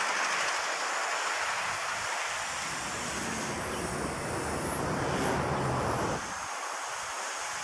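Gusty wind buffeting the microphone, with the faint high whine of a Walkera V120D02 micro RC helicopter's electric motor and rotor rising and falling in pitch as it flies. The low wind rumble drops away about six seconds in.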